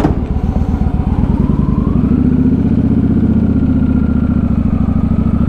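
Motorcycle engine running with its firing pulses distinct, then revving up about two seconds in, with a rising whine, and holding at a steady higher speed as the bike pulls away.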